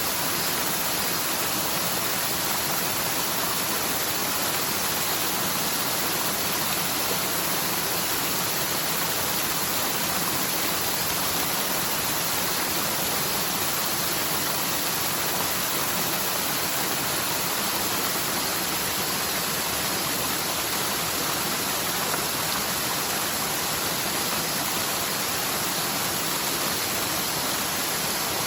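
Forest mountain stream swollen by typhoon rain, rushing steadily without a break; a channel that normally carries almost no water.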